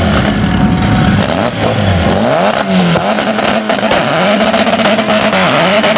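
Honda EG Civic hatchback drag car's engine being revved again and again, its pitch rising and falling about once a second, with sharp crackling pops from the exhaust.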